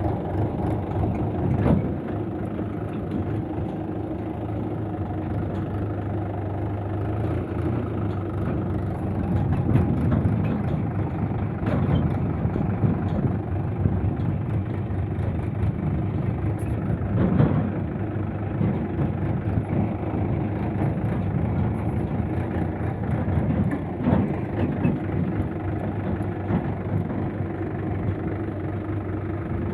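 Swaraj 843 tractor's diesel engine running steadily as the tractor is driven, a constant low hum with a few sharp knocks or rattles along the way.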